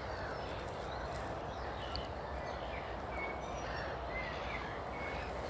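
Faint, scattered bird chirps and short whistles over a steady, low background rumble of outdoor noise.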